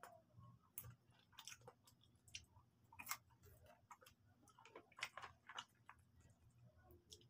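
Quiet mouth sounds of a person eating fried chicken: chewing and lip smacks heard as soft, irregular clicks, the loudest about three and five seconds in.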